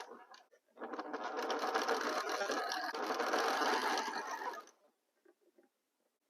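Electric sewing machine stitching a seam at a steady speed after a short pause, stopping about three quarters of the way through.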